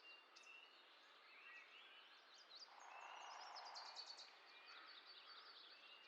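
Faint bird chirps and short calls, thickest in the second half, over a low background hiss, with a soft rush of noise around the middle.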